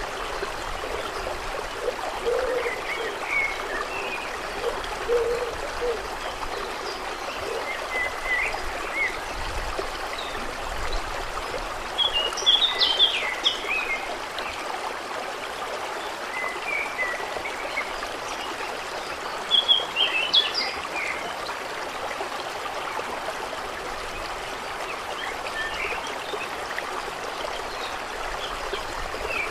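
Steady trickling and flowing of water, with birds chirping over it; two louder bursts of chirping come about twelve and twenty seconds in.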